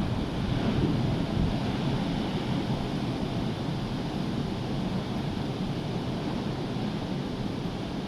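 Rough sea surf breaking and washing in, a steady rushing noise with wind buffeting the microphone, a little stronger in the first second or two.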